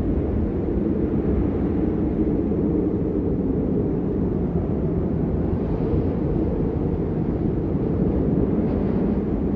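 Blizzard wind buffeting the microphone: a steady, heavy low rumble that does not let up.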